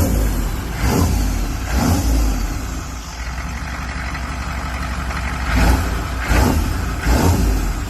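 Chevy K30 dually's 6.5-litre turbo diesel engine running, its sound swelling and easing in repeated surges about once a second early on and again near the end, steadier in between.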